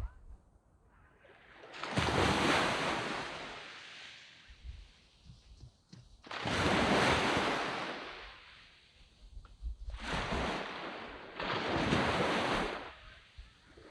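Waves breaking and washing up a sandy beach, in about four surges a few seconds apart, each one building to a rush and then fading back.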